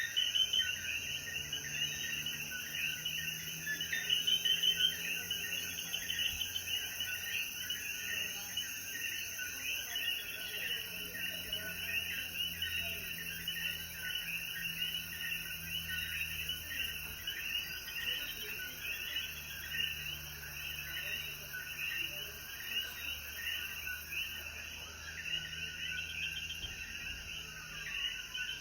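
Chorus of many Puerto Rican coquí frogs calling after rain: dense, overlapping short chirps without a break. A thin, steady high tone sounds behind them and stops about a third of the way through.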